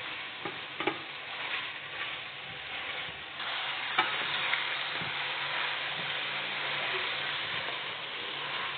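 Mushrooms, bell peppers, smoked turkey and bacon sizzling as they are sautéed and stirred in a stainless steel pan, with a few knocks of the stirring utensil against the pan. The sizzle grows louder about three and a half seconds in.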